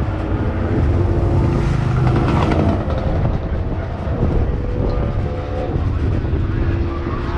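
Passenger tram rolling along: a steady engine drone with a low hum and some faint held tones, mixed with wind and rolling noise.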